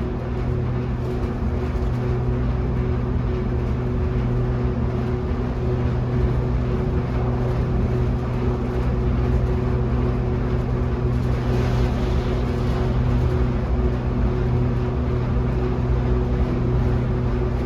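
Otis Hovair air-cushion people mover heard from inside the car while it travels between stations: a steady hum with a couple of constant low tones. The hiss swells briefly about twelve seconds in.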